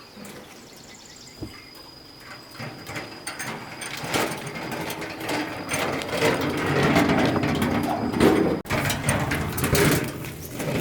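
Quiet at first, then rough scraping and clattering with many small knocks that builds up from about three seconds in and stays loud, with an abrupt break a little before the end.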